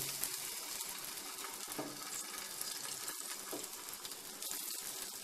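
Spice-coated potato slices sizzling and crackling in a shallow layer of hot oil in a nonstick frying pan, a steady frying hiss.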